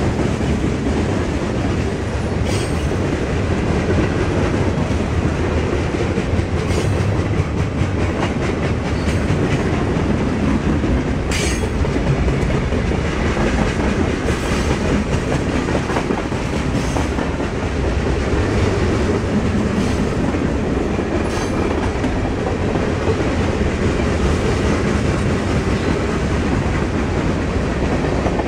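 Freight train cars, boxcars and tank cars, rolling past at speed: a steady, loud rumble of steel wheels on rail. A few brief sharp sounds cut through it.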